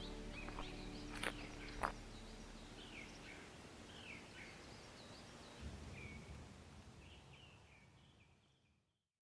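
Small birds chirping and calling, short rising and falling notes scattered throughout. A held music chord dies away in the first couple of seconds, with two sharp clicks, and the birdsong fades out just before the end.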